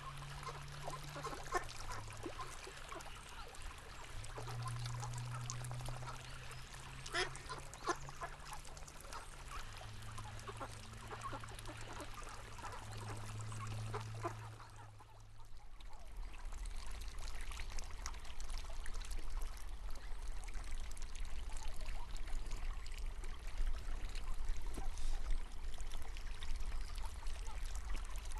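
River water running and trickling, with ducks quacking now and then. A low steady drone sits under the first half. The sound dips briefly about halfway and comes back fuller, with a low rumble.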